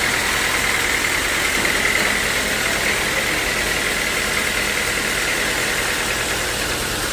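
Sawmill machinery running steadily: an even mechanical noise with a steady high whine.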